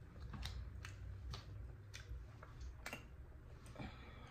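Faint irregular clicks, about one every half second to second, over a low steady hum: mouth clicks from chewing a bite of corn on the cob.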